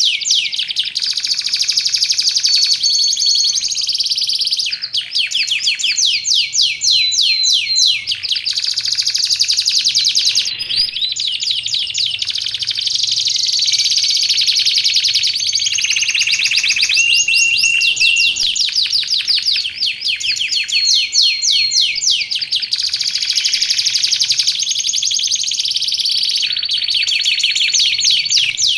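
Domestic canary singing nonstop: fast rolling trills of rapidly repeated high notes, changing phrase every second or two and broken by a few short steady whistles.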